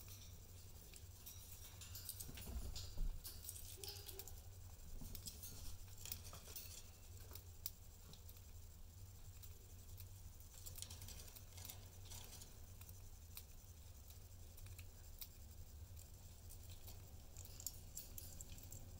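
Faint, scattered clicks, taps and scratches of pet budgies moving about and pecking in their cage, in irregular clusters, over a steady low hum.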